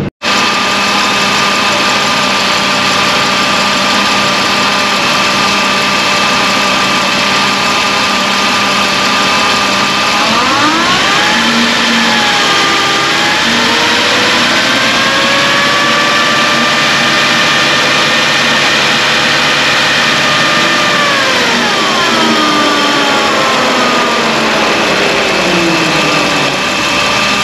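Mercury Sable's 3.0-litre V6 idling steadily while it warms up on a newly replaced thermostat. About ten seconds in, a whine rises in pitch, holds higher for about ten seconds, then falls back.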